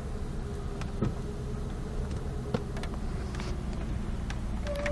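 Pickup truck moving slowly, heard from inside the cab: a steady low engine and road rumble with a faint steady whine, and a few scattered light clicks.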